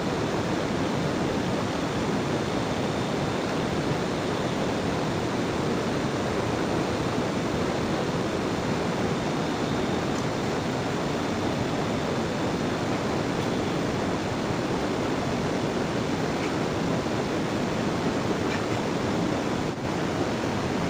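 Steady rushing water, an even noise that holds level throughout.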